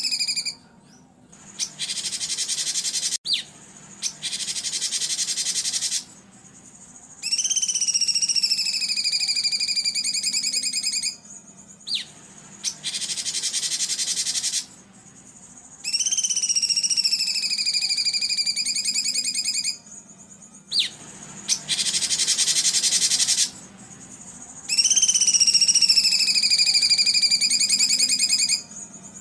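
Songbird harsh 'tembakan' song played on repeat for bird tutoring: a dense, high buzzing rattle alternating with a long pulsed trill that dips in pitch and then holds level. The pair comes around three times at even intervals, with short pauses between phrases.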